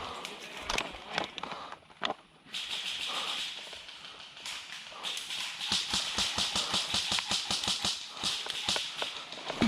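Quick footsteps crunching through dry leaves and brush, a steady rhythm of crunches over constant rustling.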